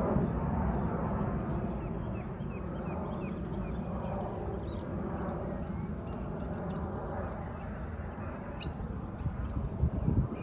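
Jet airliner rumble slowly fading as the aircraft moves away, with small birds chirping throughout. Near the end, a few gusts of wind buffet the microphone.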